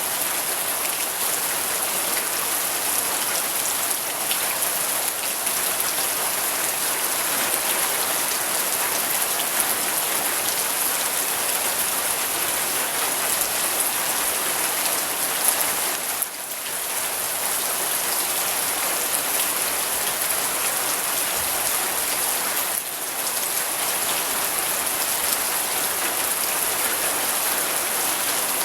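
Steady rain falling on a surface, a dense even hiss of drops that dips briefly twice, about a third of the way through and again past the middle.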